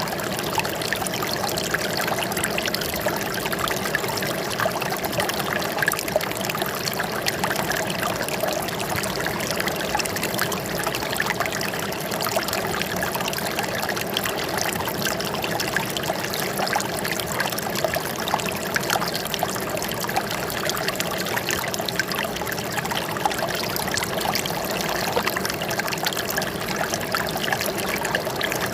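Running water trickling and splashing steadily, as in a small stream.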